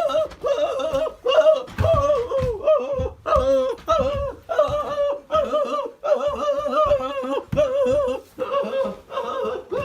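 A person's high-pitched voice in short, wavering phrases, like singing or a sing-song falsetto.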